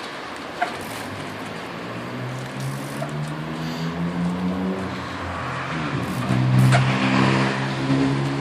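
A motor vehicle's engine revving up and down, rising in level about two seconds in and loudest near the end, with a few sharp clicks or knocks along the way.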